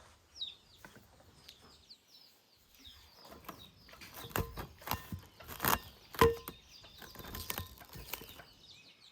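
Short, falling bird chirps repeating at the start and again near the end. In between comes a run of sharp knocks and clatter, loudest about six seconds in.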